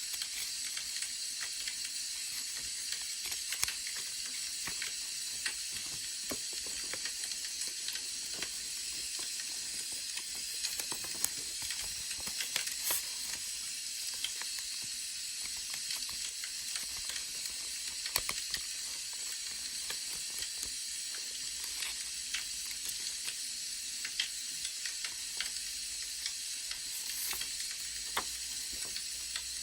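Wood fire crackling: a steady hiss with frequent irregular small pops and snaps.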